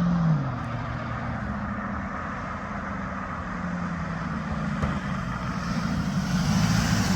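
1986 Lincoln Town Car's 5.0 V8 engine and road noise while driving at speed. The engine note drops about half a second in and builds louder again near the end.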